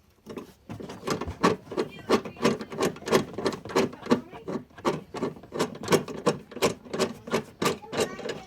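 Hand rivnut tool being worked to set a threaded rivnut insert in sheet metal: an even run of sharp mechanical clicks, about three a second.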